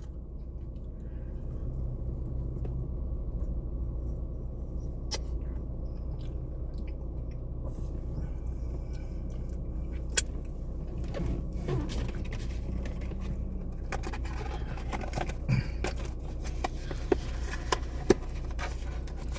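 Steady low rumble of a car's interior, with scattered light clicks and scrapes from handling food and its paper tray, coming more often in the last few seconds.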